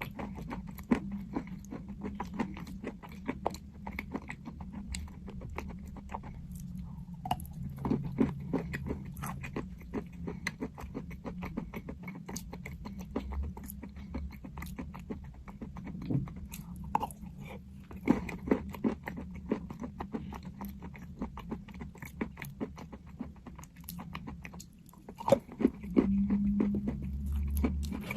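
Crunchy chalk being bitten and chewed close to the microphone: a steady run of irregular crisp crunches and clicks, over a low hum that grows louder near the end.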